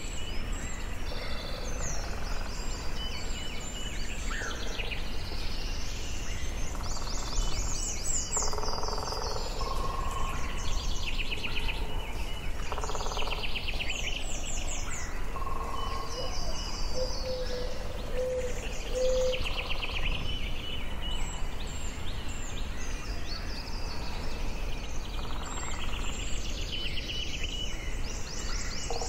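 Forest birds singing and calling, with many overlapping trills and chirps from several birds, and a few lower repeated notes now and then. A steady low background rumble runs underneath.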